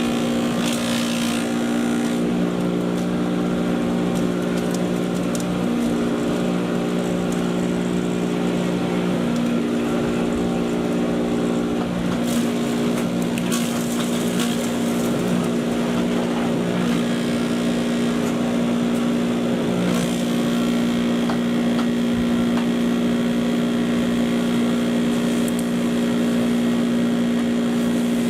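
Patriot 2.5-inch, 1.5-HP electric chipper shredder running steadily with an even motor hum. Brief rattles come about a second in and again about halfway through.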